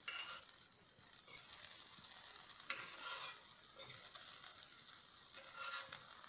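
Stuffed eggplant slices sizzling faintly in hot oil in a pan, while a metal spoon scrapes the pan a few times as the slices are flipped.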